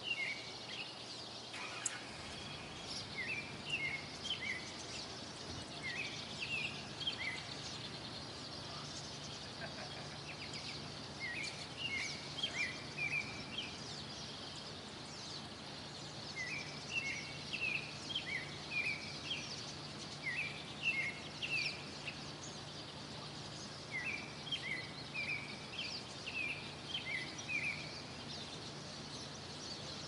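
Songbirds chirping outdoors. One bird repeats a short phrase of quick chirps every few seconds, with fainter, higher chirps from other birds over a steady background hiss and a faint low hum.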